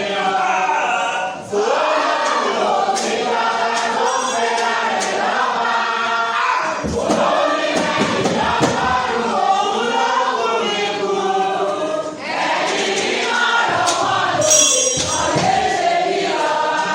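A church congregation singing together in chorus, many voices at once.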